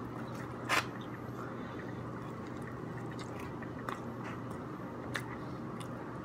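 A person biting into and chewing a tortilla-wrapped food item, with one sharp click about three quarters of a second in and a couple of fainter clicks later, over a steady low hum.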